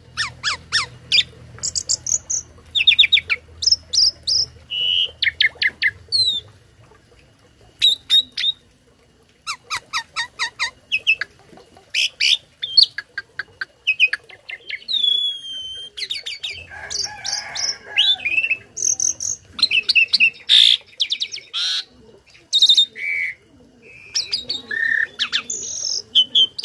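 A tame starling (jalak) singing a long, varied song. It mixes rapid trains of repeated notes with clear whistles and rising and falling glides, and a harsher, rougher stretch comes a little past the middle.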